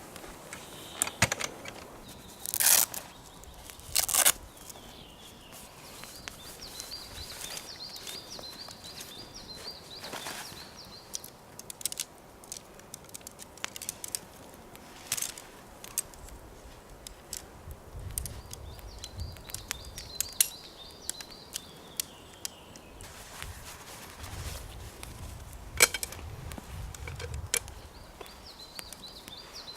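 A small songbird repeating a high trilling phrase three times, a few seconds each. Two loud short cracks or rustles come a few seconds in, with scattered clicks and snaps and some low rumbling later.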